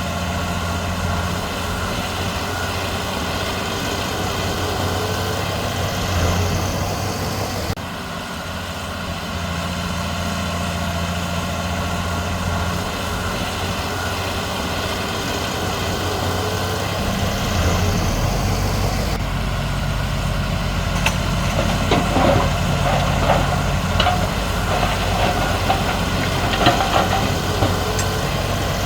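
Heavy diesel engines of a crawler bulldozer and dump truck running steadily at work. The engine note shifts about a quarter of the way in and deepens a little past halfway, and scattered clanks and knocks come over it in the last several seconds.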